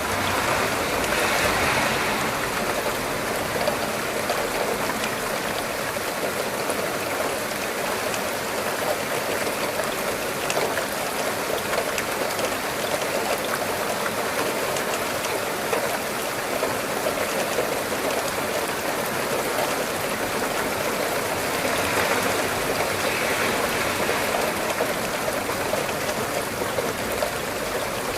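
Steady rain falling: a continuous even hiss of water. It swells slightly louder near the start and again about three-quarters of the way through.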